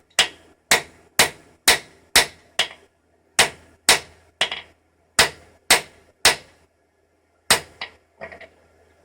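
Blacksmith's hammer striking metal on an anvil while forging a hook: steady blows about two a second, each with a short ring, in runs broken by brief pauses, ending with one more blow and a few light taps.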